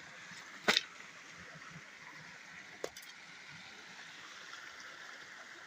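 Firewood being set down: one sharp knock about a second in and a lighter click near the middle, over a steady faint hiss.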